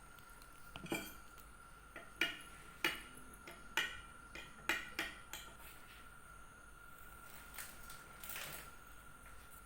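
Dishes and utensils clinking in a kitchen: about six sharp knocks with short ringing in the first half, then softer scraping.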